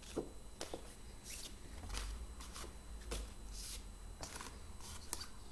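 Phonics flashcards being handled and flipped through one after another: a dozen or so short, irregular papery flicks and taps.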